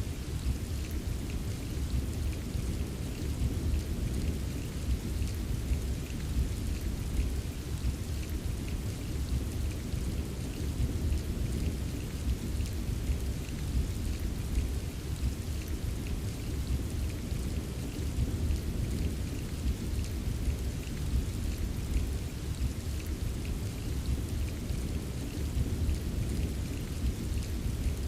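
Steady rain with a continuous low rumble of distant thunder underneath, and light taps of drops scattered through it.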